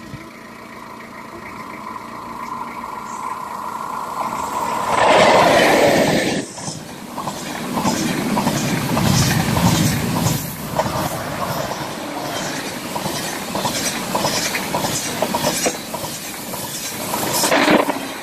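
A double-deck TGV high-speed electric train passing close by at speed. Its rushing noise builds and is loudest about five seconds in as the front of the train goes past. Then comes a steady run of wheel clacks as the coaches pass, and the sound dies away near the end.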